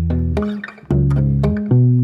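Background pop song in an instrumental gap between sung lines: bass and guitar playing, with a brief drop just before a second in.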